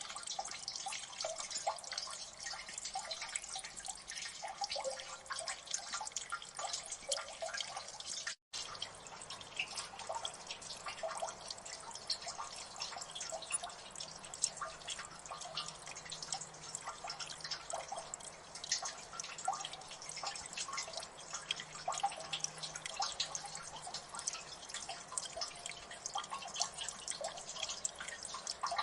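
Water dripping in a gully: many drops falling at once in a dense, irregular patter. It cuts out to silence for a split second about eight seconds in.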